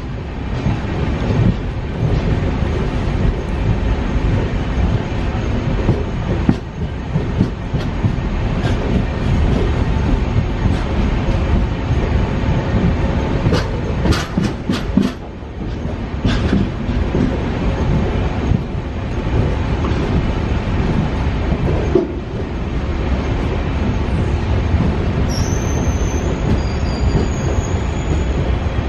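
Train running along the rails, heard from on board: a steady rumble of wheels on track, with a quick run of sharp clicks over rail joints about halfway through.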